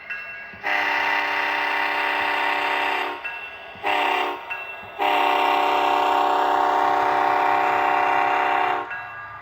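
Multi-chime locomotive air horn from an HO scale model train's sound system: a long blast, a short blast, then a long held blast, the closing part of the grade-crossing horn pattern.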